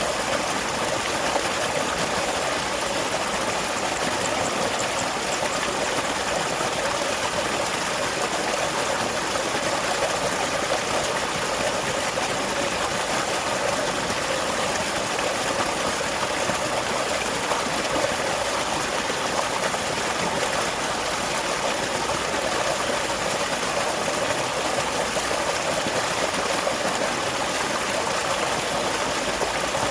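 Small waterfall pouring and splashing in a steady, even rush of water.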